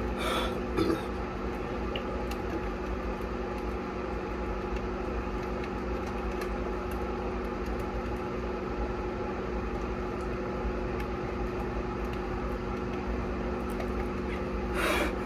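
Microwave oven running with a steady hum of several fixed tones. Brief bursts of noise come in the first second and again near the end.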